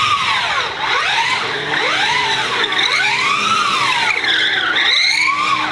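Drift car sliding with its tyres squealing, its engine revving up and dropping back again roughly once a second. The sound cuts off abruptly at the end.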